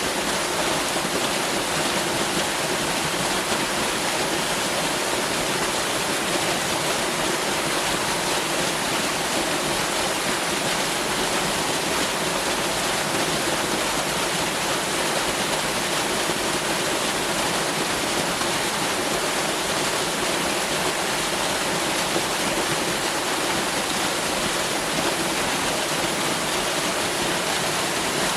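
Waterfall: water falling and splashing in a steady, unbroken rush that is heavy in the high hiss.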